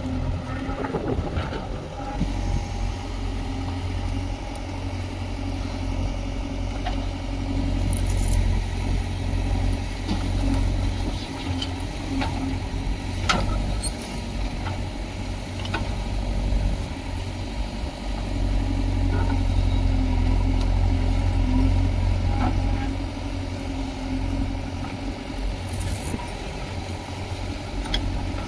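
Diesel engine of heavy earth-moving machinery running steadily, getting louder for a few seconds a little past the middle, with a few sharp knocks.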